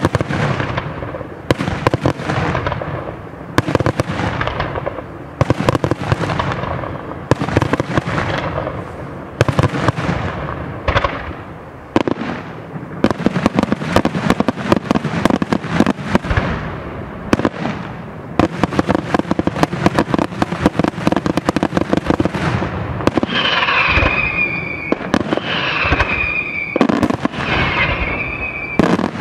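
Daytime fireworks display: a rapid, unbroken series of loud bangs as aerial shells and firecrackers burst. Near the end, three short falling whistles sound between the bangs.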